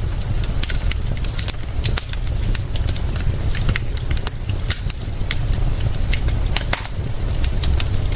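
Wood fire crackling, with many sharp irregular pops and snaps over a steady low rumble and hiss.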